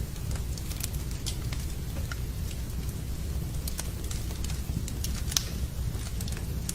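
Wood fire crackling in a fireplace, scattered sharp pops over a steady low rumble, with a louder pop about five seconds in, mixed with the sound of rain.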